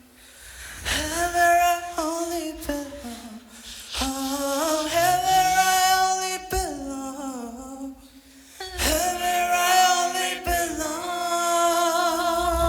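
Beatbox crew's a cappella vocal harmony: several voices holding long notes together that slide from chord to chord every couple of seconds, with an occasional vocal kick-drum hit under them.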